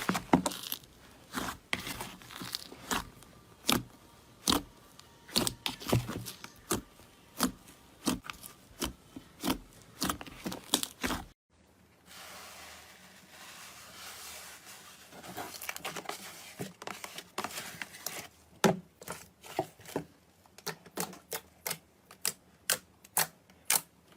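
A crunchy material being pressed and crushed by hand, giving a run of sharp crackles and snaps about one or two a second. The sound cuts off abruptly about halfway through, then after a quieter stretch the crackling returns, faster, toward the end.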